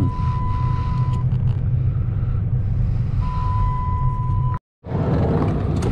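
Vehicle engine and road rumble heard from inside the cab while driving, with a steady high-pitched warning tone that sounds for about the first second and again for a second and a half later on. Near the end the sound cuts out completely for a moment, then the rumble picks up again.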